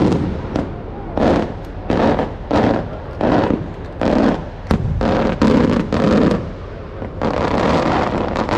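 Maltese aerial fireworks shells bursting in quick succession, about one every two-thirds of a second, with a longer rushing burst near the end, over a constant low rumble.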